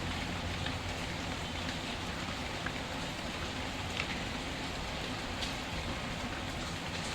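Steady rain falling, with a wood fire's faint crackles as a few sharp ticks standing out now and then.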